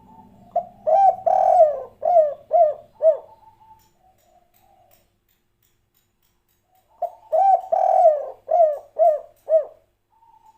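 Spotted dove cooing: two song phrases a few seconds apart. Each is a long coo followed by three short, clipped coos, the 'kuk 3' ending of this song type.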